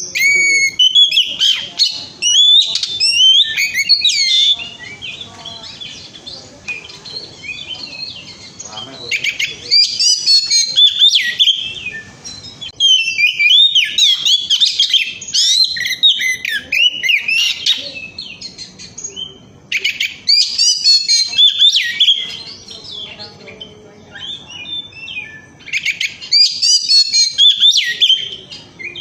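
Oriental magpie-robin singing: bouts of rapid, varied whistled phrases, about five in all, broken by short pauses.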